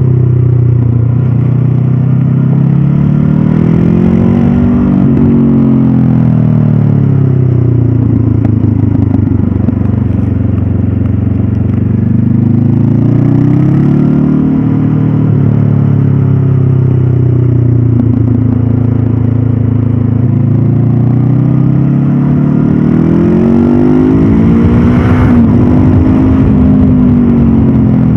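Honda CB500F's 471 cc parallel-twin engine through its stock exhaust, on the move: it holds a steady pitch while cruising and three times rises smoothly under throttle, then falls away as the throttle is rolled off.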